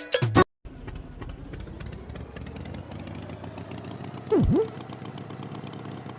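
Cartoon tractor engine running steadily with a fast rattling putter, its pitch creeping up over the first few seconds. About four seconds in comes a loud, brief swooping effect that dips low in pitch and comes back up.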